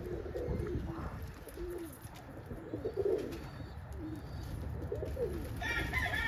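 Domestic pigeons cooing, with repeated low swooping coos. A higher-pitched sound comes in near the end.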